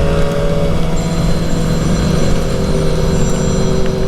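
Suzuki GSX-R750 inline-four engine running at a steady cruising speed, with a constant rush of wind and road noise.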